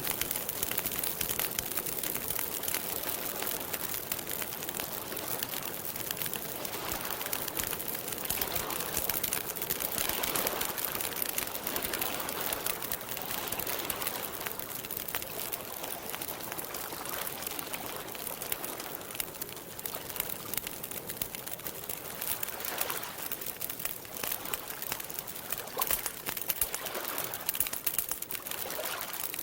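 Campfire crackling steadily with a constant patter of small pops, and a few soft bird calls coming and going over it.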